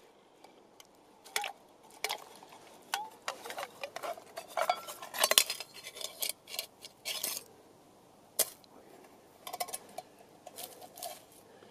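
Metal camp cookware clinking and clattering: a run of sharp knocks and clinks, some briefly ringing, busiest in the middle and again near the end.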